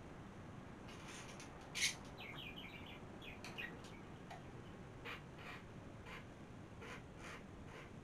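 Faint chirping of small birds: short high calls in quick runs, the loudest about two seconds in.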